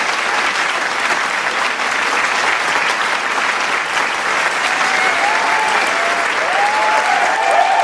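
Large crowd applauding steadily, dense clapping, with cheering voices rising over it in the last few seconds.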